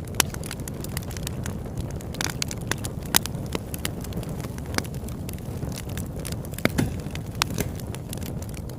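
Campfire crackling, with irregular sharp pops over a steady low rush; a few pops stand out louder, one just after the start, one about three seconds in and a cluster near the end.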